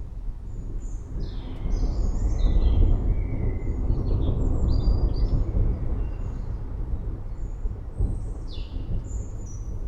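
A long rumble of thunder that swells about two seconds in and slowly fades, with birds chirping over it in short high calls.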